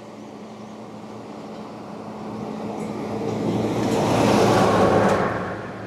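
A vehicle passing close by on the road, its tyre and engine noise swelling to a peak about four to five seconds in, then fading away.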